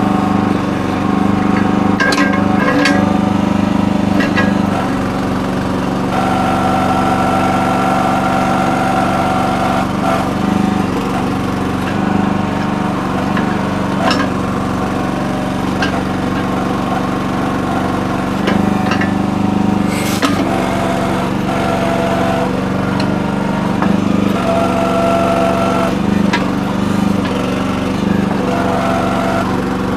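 Small gas engine of a Red Rock towable mini backhoe running steadily while digging, with a higher whine that comes and goes as the machine is worked. There are a few sharp clanks, the loudest about two-thirds of the way in.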